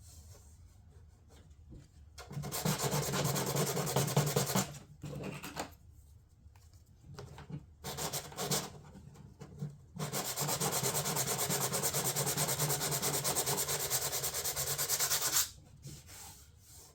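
Sanding on a fiberglass door panel, abrasive paper scraping over cured filler and fiberglass to bring out the low spots. There is a run of sanding about two seconds in, a few short scrapes, then a longer steady run from about ten seconds in.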